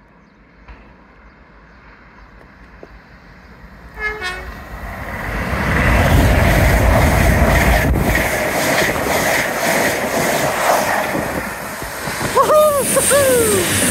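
LNER Azuma high-speed train sounding a short horn blast about four seconds in, then rushing through the station at speed with a loud, steady roar of wheels and air. Near the end, as it crosses a CrossCountry Voyager on the other line, two short arching tones sound over the rush.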